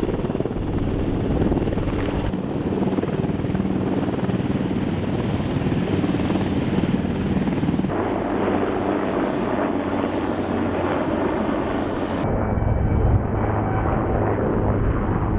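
Military helicopter running, a steady rotor and turbine noise with a low hum. The sound changes abruptly about 8 seconds in and again about 12 seconds in.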